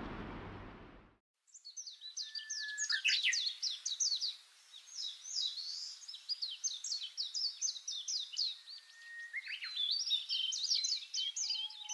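Steady rush of a river fading out within the first second, then birds singing: a dense run of quick falling chirps and short whistled notes.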